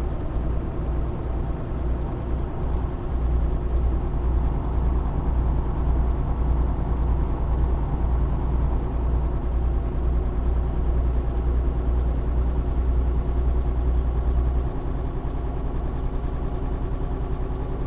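Tanker truck's diesel engine running steadily on the road, a deep rumble that eases off a little about fifteen seconds in.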